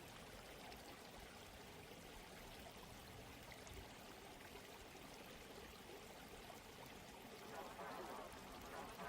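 Faint, steady rush of running water, slightly louder near the end.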